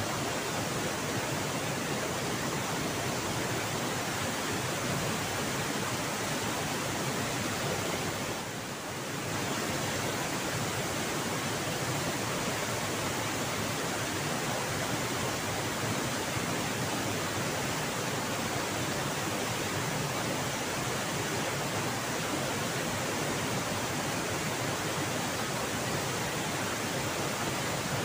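Steady rush of a waterfall and fast river current, an even dense noise that dips briefly about eight and a half seconds in.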